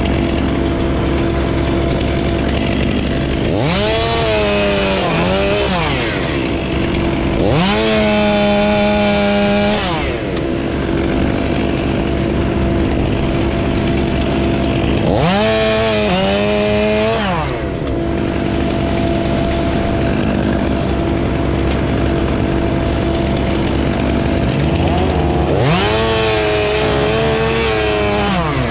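Chainsaw revved up to full throttle four times, each time for about two seconds before dropping back. A steady engine drone runs underneath throughout.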